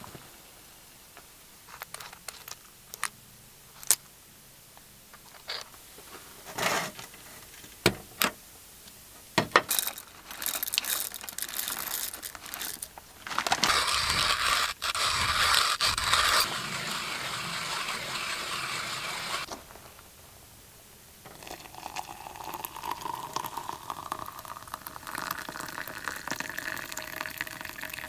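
Camp cooking gear being handled with sharp clicks and knocks, then freshly boiled water being poured in two long stretches, the first steady, the second more uneven.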